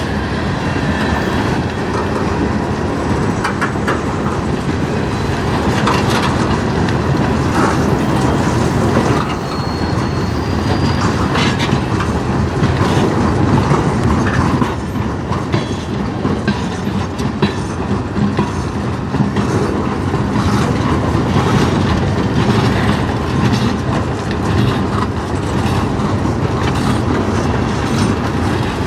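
Freight cars of a mixed freight train (covered hoppers and boxcars) rolling past close by: a steady rumble of steel wheels on the rails with the clickety-clack of wheels over rail joints, and now and then a brief faint high squeal from the wheels.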